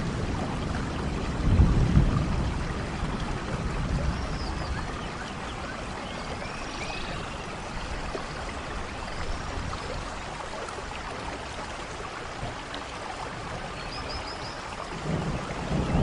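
Steady rainfall with low rumbles of thunder, one about two seconds in and another building near the end, and a few faint high chirps over the rain.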